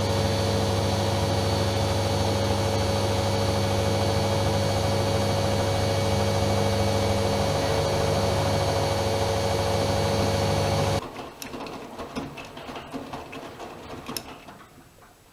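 AEG Öko-Lavamat Lavalogic 1600 washing machine running with a steady mechanical hum that cuts off suddenly about eleven seconds in, leaving a few faint clicks and rattles that die away.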